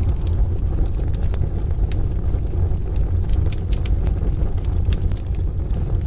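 Wood fire crackling in a stove: scattered sharp pops and snaps over a steady deep rumble.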